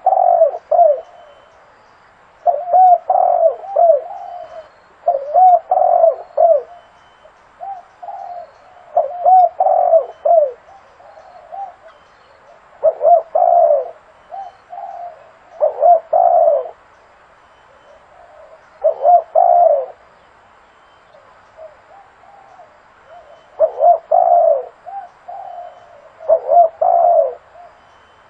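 Spotted dove cooing: a phrase of several quick coos, repeated about every three seconds with short pauses between.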